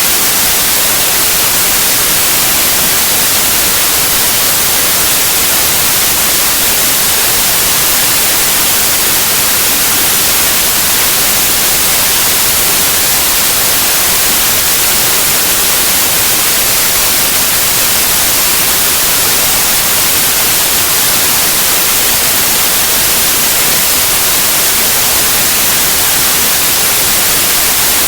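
White noise: a steady, loud, even hiss with no change over time.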